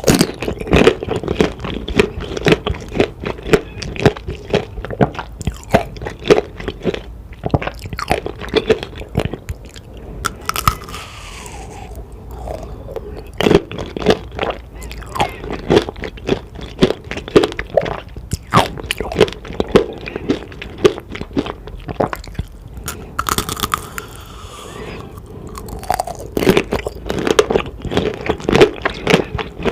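Biting and chewing tanghulu, fruit coated in a hard candied sugar shell: the shell cracks and crunches in quick, irregular crackles, with a couple of short lulls between bites.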